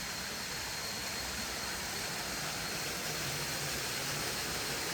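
Waterfall rushing steadily, an even wash of falling-water noise.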